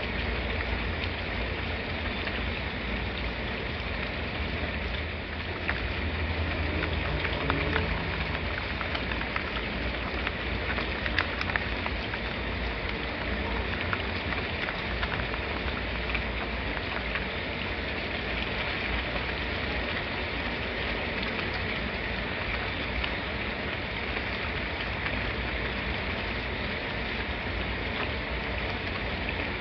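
Steady rain falling, with the sharper ticks of individual drops scattered through it and a low rumble underneath.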